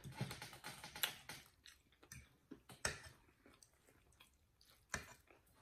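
Quiet chewing and mouth sounds of people eating, with a few sharp clicks of forks and a knife against plates.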